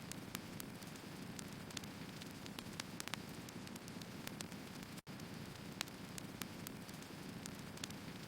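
Firewood burning: a steady low rushing with sharp crackles and pops scattered through it, several a second. The sound cuts out for an instant about five seconds in.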